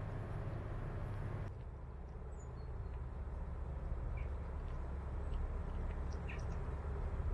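Outdoor ambience: a steady low rumble, with a few faint, short bird chirps from about two seconds in.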